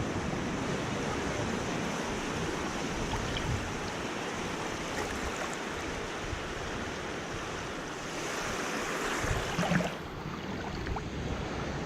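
Ocean surf washing in, a steady rushing wash that swells a little about eight seconds in and drops back about ten seconds in.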